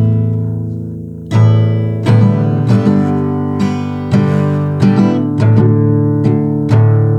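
Acoustic guitar strummed as a song intro: a chord rings and fades, then a new strum comes about a second and a half in, and steady rhythmic strumming follows.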